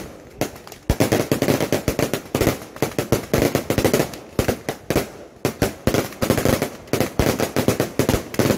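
Firecracker strings going off in rapid, irregular volleys of sharp cracks, with a short lull about a second in and another about five seconds in.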